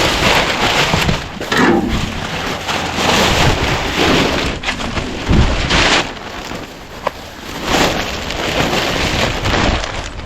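Strong gusting wind buffeting the microphone: a rushing noise with a low rumble that swells and drops irregularly.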